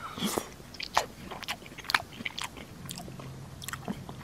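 Close-miked crunchy chewing and biting: a run of sharp, irregular crunches, about three a second, with a short falling swish at the start.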